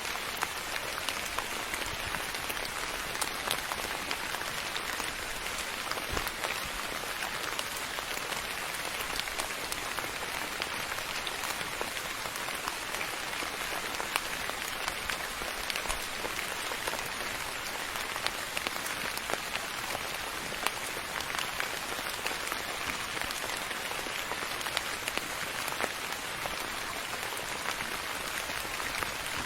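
Steady rain falling on a surface, an even hiss with many small, scattered drop ticks.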